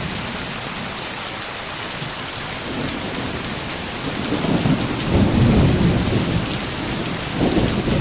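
Heavy rain pouring steadily, with low rolls of thunder swelling about halfway through and again near the end.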